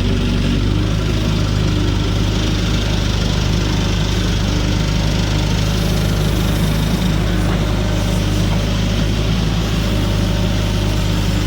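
Farm diesel engine running steadily at an even speed, a constant low hum with no change in pitch.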